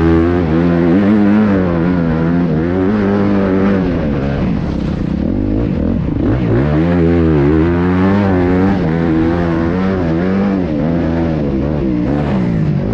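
Motocross bike engine revving hard, its pitch rising and falling about once a second as the throttle is worked on and off.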